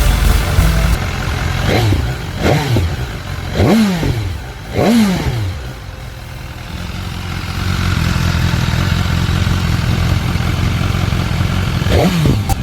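BMW S 1000 superbike's inline-four engine revved in short throttle blips, each rising and falling in pitch, about four blips in the first five seconds. It then idles steadily, with two more blips near the end.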